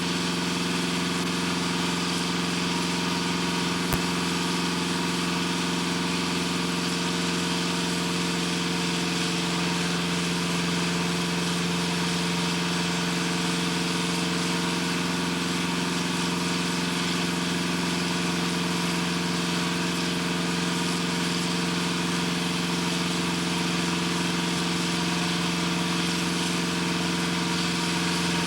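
Steady drone of heavy industrial machinery with a strong low hum and a hiss over it, unchanging throughout. A single click about four seconds in.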